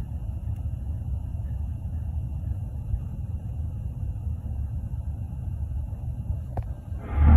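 An unexplained steady low rumble, deep and droning, with faint steady high-pitched tones above it. Near the end a short click is heard, then a much louder, fuller rumble swells in.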